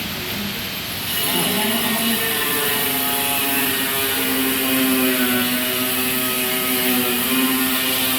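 Steady engine or motor drone with a pitched hum, getting louder about a second in.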